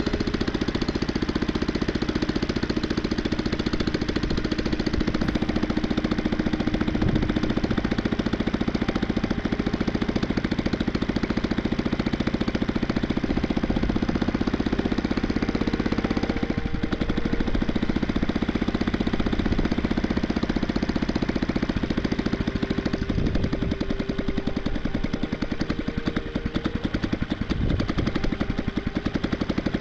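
Antique Ultimotor small air-cooled single-cylinder gas engine running unloaded, its firing strokes coming in rapid, even succession, freshly started and not yet idled down.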